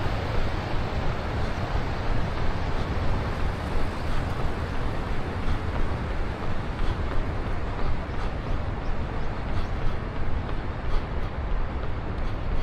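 Wind rumbling on a running action camera's microphone over steady road traffic noise, with faint, evenly spaced ticks of the runner's footfalls in the second half.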